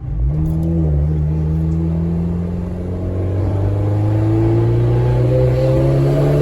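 Big-turbo VW Golf GTI Mk4 engine heard from inside the cabin, pulling up through the revs: a quick rise in pitch right at the start, then a slow, steady climb from about three seconds in.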